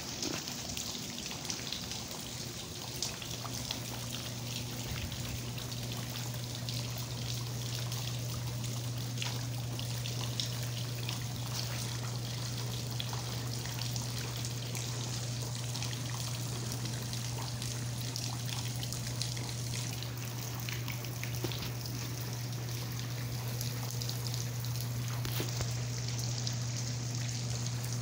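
Steady rain, with many fine drops pattering and water trickling and pouring, over a steady low hum.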